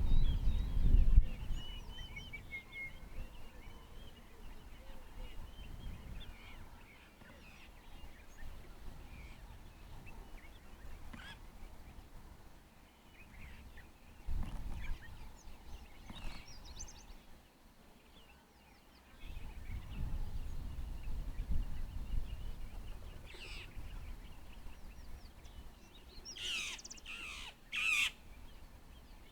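Wild birds calling: thin twittering calls in the first few seconds, scattered single calls, then three loud calls in quick succession near the end. Bursts of low rumble come and go underneath, loudest at the very start.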